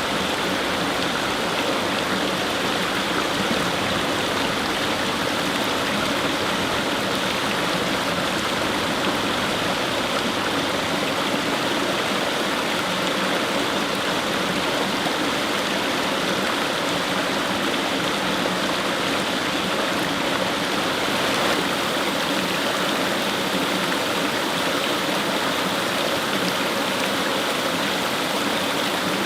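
Fast-flowing stream rushing steadily over stones, a continuous even water noise with no breaks.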